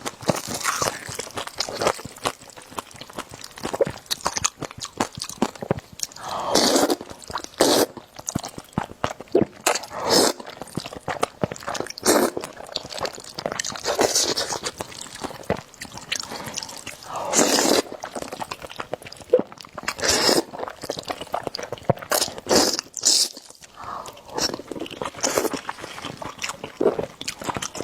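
Close-miked eating of noodles: chewing and slurping in irregular bursts, some of them half-second slurps.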